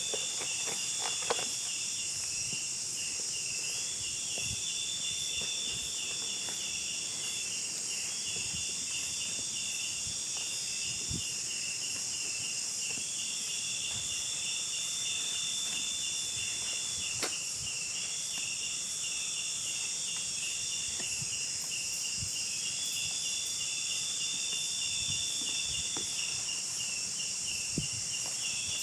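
Chorus of insects: a steady high-pitched buzzing drone, a rhythmic chirping trill beneath it, and a longer call that comes back every few seconds. A few faint ticks sound now and then.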